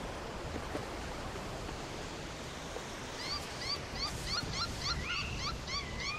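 Steady wind and surf. A little past halfway a bird starts calling: a quick run of short rising notes, about five a second, ending in longer held notes.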